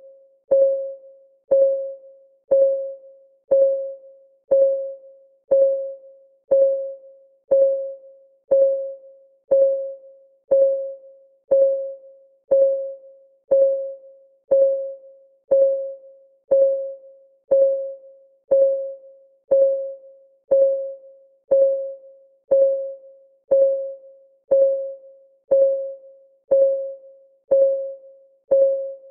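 Steady, evenly spaced clock ticking of a countdown timer, one tick a second. Each tick is a short mid-pitched tone that fades quickly.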